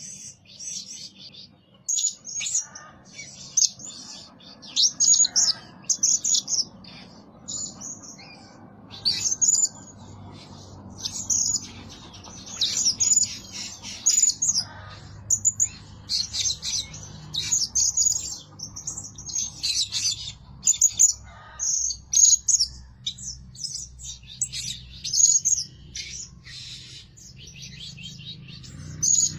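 Blue-crowned hanging parrot calling: quick, high-pitched chirps in short clusters, repeated with brief gaps throughout.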